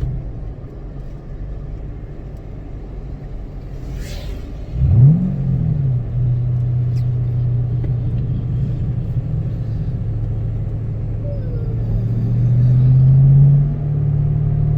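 2006 Ford Mustang GT's V8 engine running under way, with a steady low drone. About five seconds in, a quick rev rises and falls. Near the end the engine note climbs gradually under acceleration, then drops suddenly as the driver shifts or lifts off.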